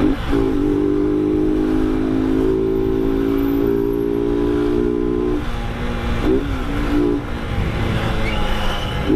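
Motorcycle engine running steadily under way, its note dipping briefly and climbing again near the start, about six seconds in and near the end.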